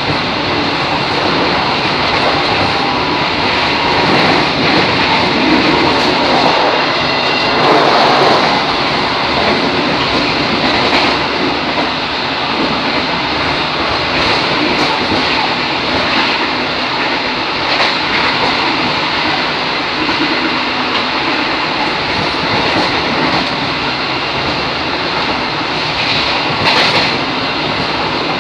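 KRD diesel multiple unit running along the track, heard from its rear cab: a steady, loud rumble of wheels on rails and the running train, with occasional sharper clacks.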